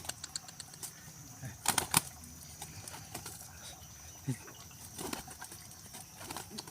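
Pigeon wings flapping in a few short bursts of claps, the loudest a quick run just under two seconds in and another around five seconds.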